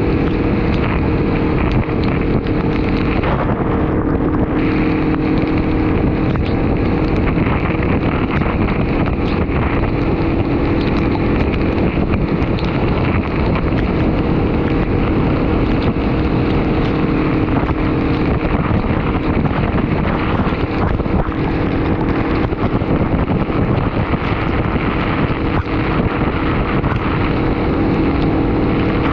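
Honda VFR800Fi's V4 engine running at a steady cruising speed, under heavy wind rush on the microphone.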